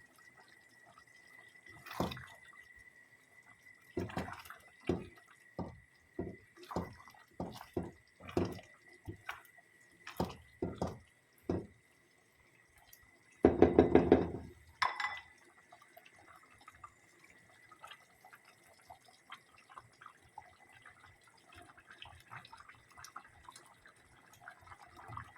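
Coconut-milk curry simmering in a pot, the thick sauce bubbling with separate plopping pops, then a louder rattling burst lasting about a second, then faint crackling. A faint steady high tone runs underneath.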